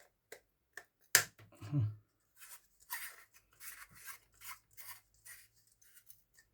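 Small handling sounds from an LED bulb being worked on: a few clicks and a sharp knock, then a run of short rubbing or scraping strokes, about one or two a second.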